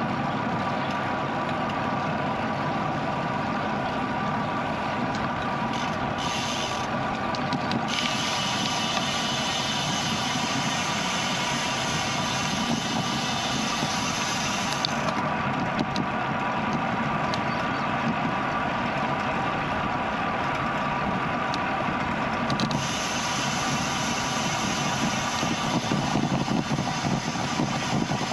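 Steady rush of wind and road noise while riding a bicycle, heard through a GoPro's microphone, with a faint steady hum.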